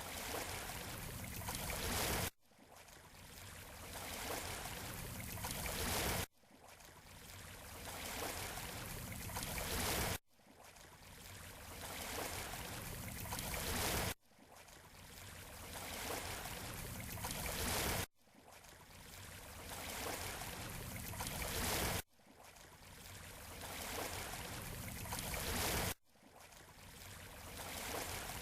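Beach surf noise in a short repeating loop: every four seconds or so the wash swells gradually, then cuts off abruptly into a brief silence, seven times in a row.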